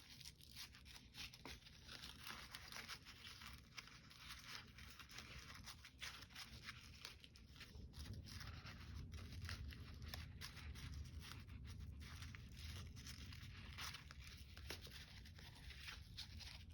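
Faint rustling and crinkling of paper being handled and folded, with many small taps and crackles, over a low hum that grows a little louder about eight seconds in.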